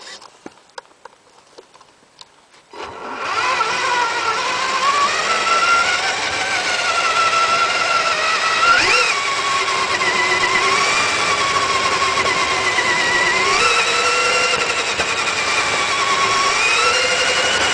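Tamiya radio-controlled truck running. After a few faint clicks, a steady pitched drive sound starts abruptly about three seconds in and rises and falls in pitch as the throttle changes.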